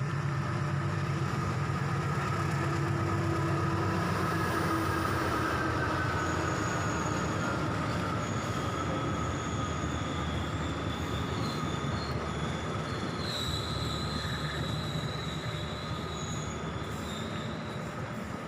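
Diesel-hauled passenger train rolling past at low speed, with a steady running rumble and high-pitched wheel squeal on the rails. A tone glides slowly down in pitch over the first half, and several thin squeals come and go later as the sound eases off a little.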